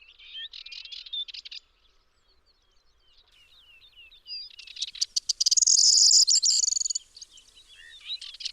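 Songbirds singing: short twittering, warbling phrases at the start, then about halfway through a loud, dense song that opens with rapid ticks and runs into a high jangle for a couple of seconds.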